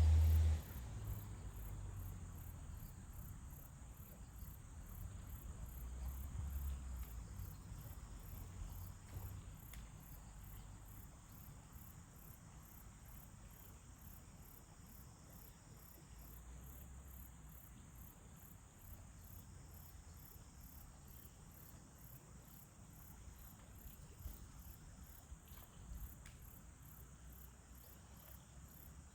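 Crickets chirping: a high, thin pulsing that repeats evenly about twice a second, with a faint low rumble beneath.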